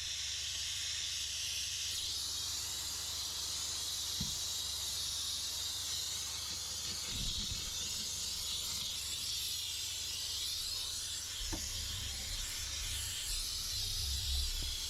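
Steam cleaner's nozzle jetting steam into a car's interior upholstery: a steady, unbroken hiss, with a few faint knocks of the nozzle against the car.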